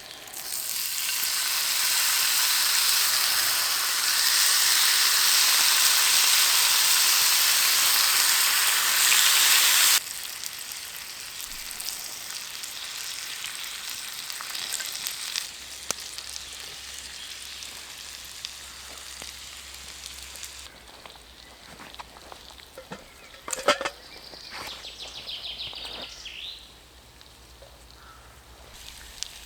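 Food frying in olive oil in a pan: a loud, steady sizzle that drops suddenly to a quieter sizzle about ten seconds in, with a few sharp knocks later on.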